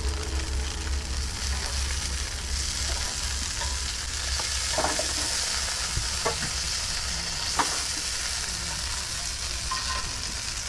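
Breakfast food sizzling on a small camp griddle, a steady frying hiss with three light clicks or taps in the middle and a low hum underneath.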